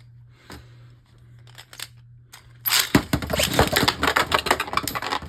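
Beyblade Burst spinning tops launched together about two and a half seconds in, with a sharp zip, then clashing and rattling hard against each other and the plastic stadium in fast dense clicks. Before the launch, only a few light plastic clicks.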